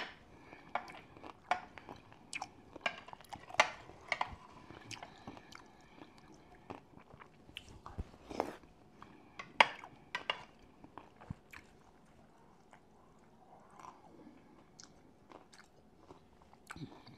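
Close-miked chewing of bacon with pineapple: irregular wet smacks and crunchy clicks, busiest in the first half with the loudest bites about 3.5 and 9.5 seconds in, then sparser.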